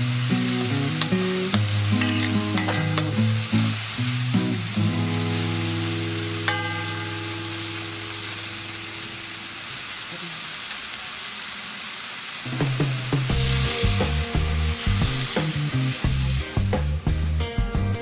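Pork sizzling in oil in a wok while a spatula stirs and scrapes it, with sharp clicks of the spatula against the pan in the first few seconds. Background music with low held notes runs underneath and turns rhythmic about twelve seconds in.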